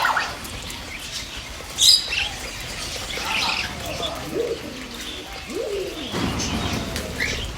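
Pet birds chirping and calling over one another, with pigeons cooing in low falling notes near the end. A sudden sharp, loud sound about two seconds in is the loudest moment.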